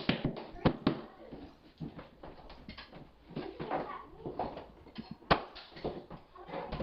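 Irregular wooden knocks and clatter of hardwood flooring boards being handled and fitted into place, with a few sharper knocks near the start and about five seconds in.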